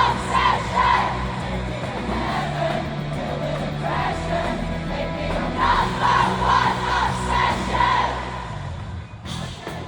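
Live pop-rock band music heard from within a concert crowd, the audience singing and shouting along over held bass notes. About nine seconds in the music stops, leaving crowd noise.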